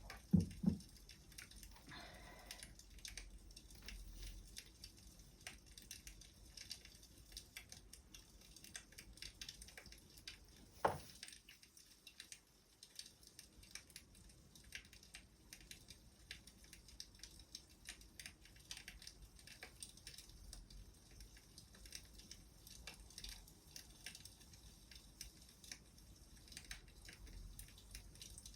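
Wood fire crackling faintly with small irregular pops and clicks. There is a louder knock near the start and another about eleven seconds in.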